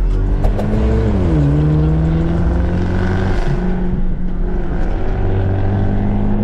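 Car engine running under load, its pitch dropping sharply about a second in and again near the end, like upshifts while driving.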